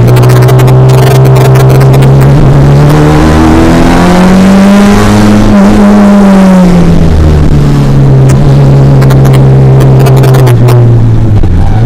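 Race car engine running continuously and loud, its pitch rising about four seconds in and falling back a few seconds later, then holding steady.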